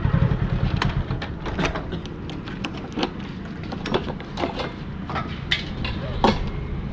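Motorcycle engine running at low revs, fading away over the first second or two, followed by scattered short clicks and knocks with brief snatches of distant voices.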